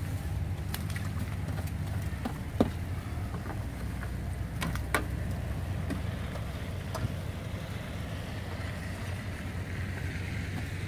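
A vehicle engine running steadily with a low rumble, with a few sharp clicks and taps over it.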